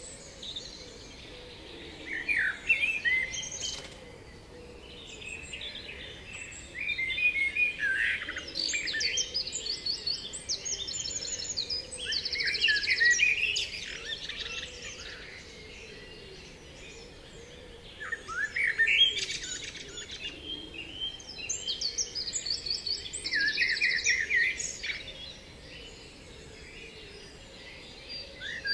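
Birdsong: a songbird singing bursts of chirps and trills a few seconds long, with short pauses between, over a faint steady hiss.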